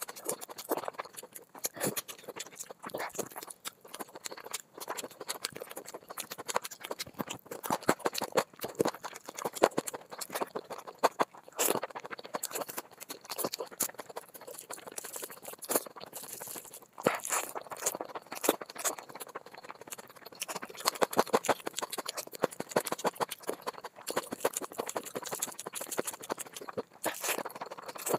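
Close-miked mouth sounds of eating biryani rice and curried boiled eggs by hand: chewing with a dense, irregular run of wet clicks and smacks.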